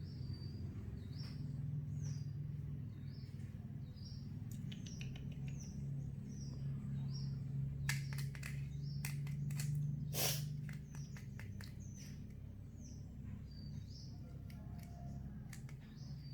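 Owl chick giving short, high chirps over and over, a little more than one a second. Under it runs a steady low hum that fades out about two-thirds of the way in, and a cluster of clicks with a brief rush of noise comes around the middle.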